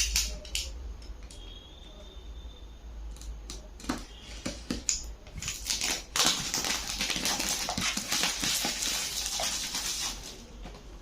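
Handling a speedcube's retail box: scattered taps and clicks, then about four seconds of dense crinkly rustling as the packaging is worked open.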